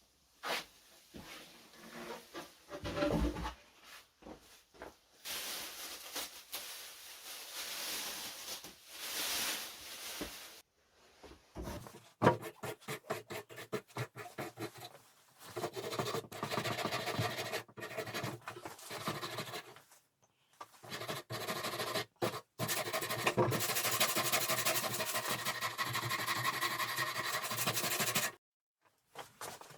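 Hand work rubbing and scraping on the old wooden cabinet, in several stretches of dense scratchy noise broken by a few clicks, each stretch cutting off suddenly.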